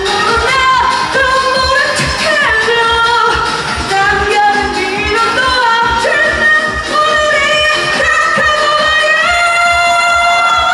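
Female pop singer singing live over a fast dance-pop backing track with a steady beat; she holds one long note near the end.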